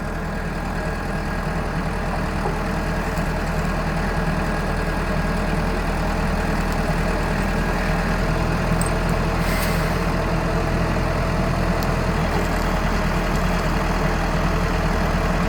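Self-loading concrete mixer's diesel engine running steadily, growing a little louder over the first few seconds.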